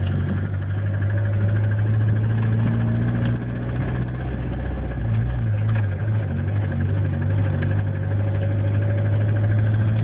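DSM car engine idling steadily, with a tick or knock that the owner cannot yet place as lifter tick or rod knock.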